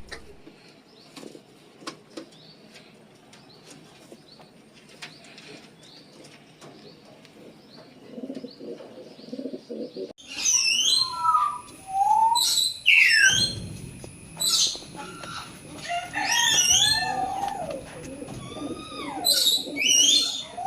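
Birds calling: a quiet first half with a few soft clicks and low cooing, then, from about halfway, loud repeated chirps and falling whistled calls.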